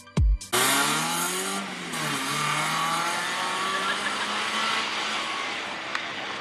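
Rally car's engine revving hard as it accelerates along the stage. Its pitch rises for about a second, dips briefly about two seconds in, then holds fairly steady. This follows the last heavy beats of electronic intro music, which cuts off half a second in.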